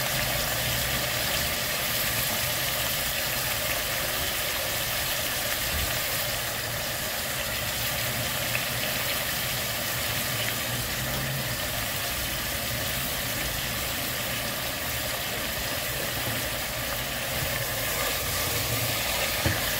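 Steady hiss of vegetables frying in oil in an aluminium pressure cooker on the stove, with a low hum underneath.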